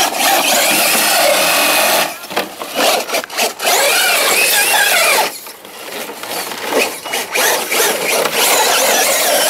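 ECX Torment electric RC short-course truck's motor whining, its pitch rising and falling. The sound drops away briefly about two seconds in and again around five and a half seconds in.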